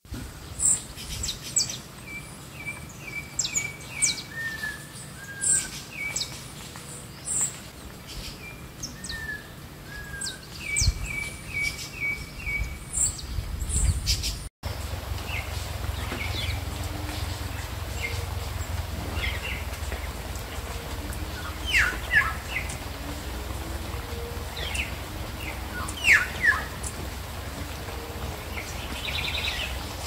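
Wild songbirds calling and singing: thin high chirps, short runs of quick repeated notes and several sharp down-slurred whistles, spaced out with pauses. A steady low rumble runs underneath in the second half.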